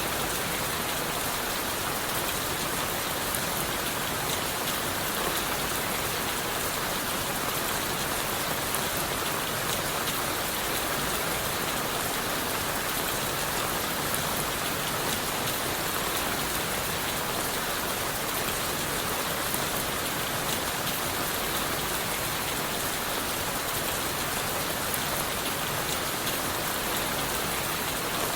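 Steady rain falling on leaves and wood: an even, unbroken hiss with scattered faint drop ticks.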